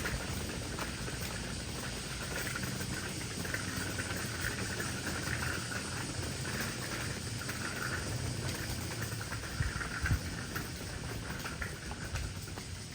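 Outdoor island ambience: a steady rushing wash of small waves with wind rumble, and an uneven high chirring of insects on top. A couple of brief knocks come a little past halfway.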